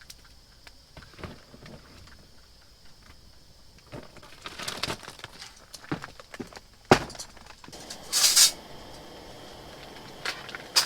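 Hard pieces of charcoal clinking and knocking together as they are handled for a fire, with a sharp knock about seven seconds in and a brief hiss a second later.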